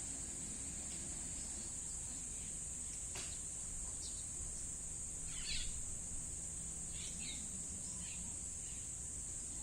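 Steady high-pitched insect drone, with a few short bird chirps over it.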